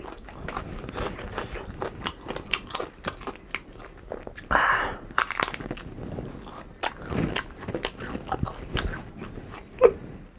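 Close-miked eating: a person biting and chewing food, with many small wet clicks and crunches and a louder crunch about halfway through.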